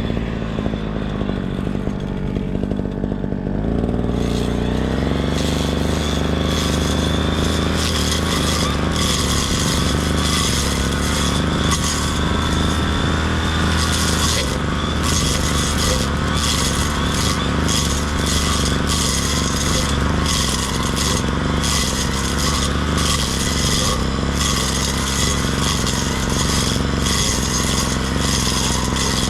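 Brush cutter engine running, revving up about four seconds in and then held at high speed while cutting grass, with an uneven rasping flutter over the engine note.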